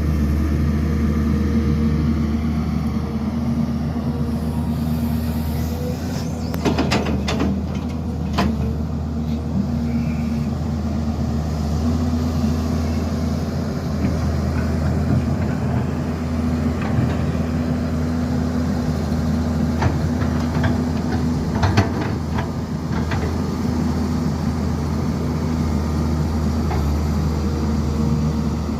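Heavy diesel construction machinery running steadily with a low, even engine drone, broken by bursts of sharp metallic clanks about a quarter of the way in and again past the middle.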